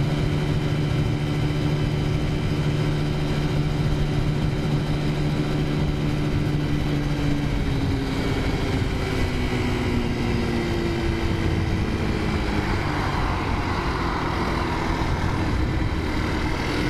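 Taotao 50cc four-stroke scooter engine running at a steady pace while riding, then dropping in pitch from about eight seconds in as the rider eases off the throttle.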